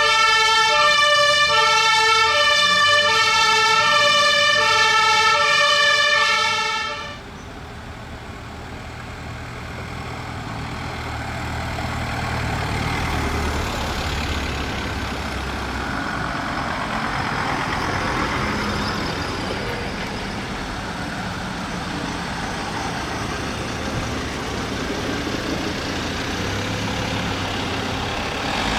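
A fire engine's German two-tone siren (Martinshorn) sounding its alternating high-low call. It cuts off about seven seconds in, leaving the truck's engine running.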